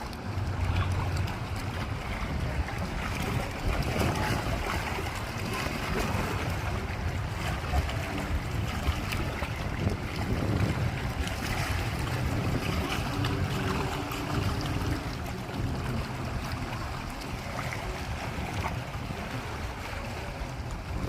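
Small lake waves lapping steadily at the shore, with wind buffeting the microphone.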